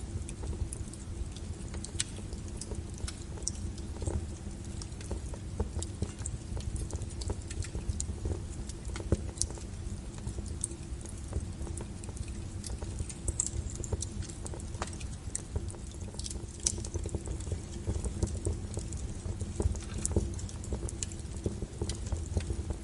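Log fire burning in a fireplace: irregular crackles and sharp pops over a low steady rumble.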